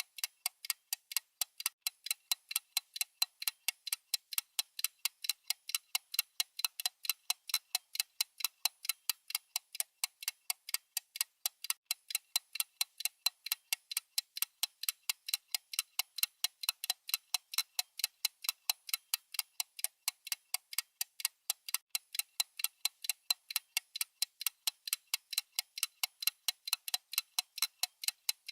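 Clock ticking sound effect: a fast, perfectly even run of sharp, high-pitched ticks, several a second, with no low end.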